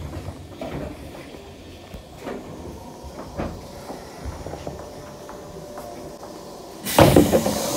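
Station platform background with scattered light knocks and clicks, then about seven seconds in a sudden loud hiss with train noise from a train standing at the platform.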